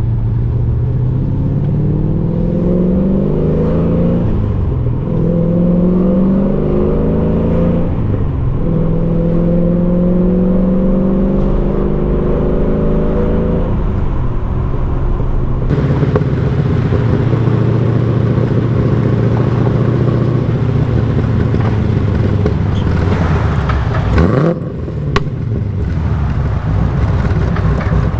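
LS V8 in a BMW E36 accelerating hard through the gears of a T56 manual, its raw exhaust note climbing in pitch, dropping at two upshifts about 4 and 8 seconds in. From about halfway it holds a steadier note, with a brief lift and pitch sweep near the end.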